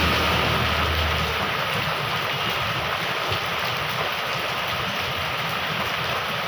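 Heavy rain pouring steadily with an even hiss. A passing vehicle's low engine hum fades out within the first second or two.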